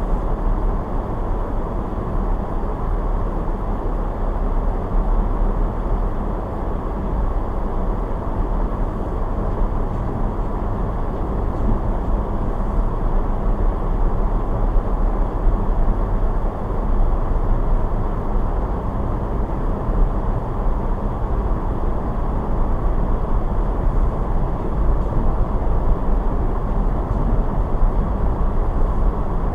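Steady low rumble of a car being driven, engine and tyre noise on the road, unchanging throughout.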